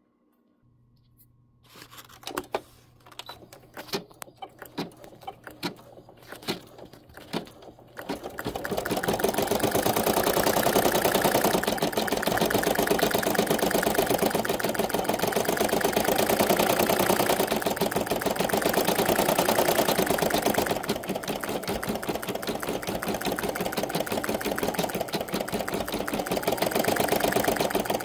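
A few scattered clicks and knocks, then a domestic embroidery machine starts stitching about eight seconds in, a fast steady run of needle strokes that goes on from there.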